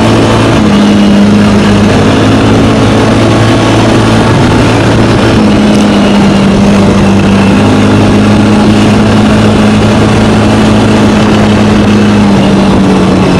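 ATV engine running through an exhaust with its rear silencer removed, heard close at the exhaust. A steady low drone whose pitch steps up about half a second in and again around five seconds in, then drops near the end.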